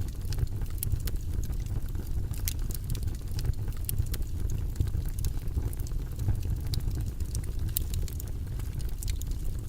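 Steady low rumbling noise with scattered faint crackles and clicks, from an ambient noise track played as a study background.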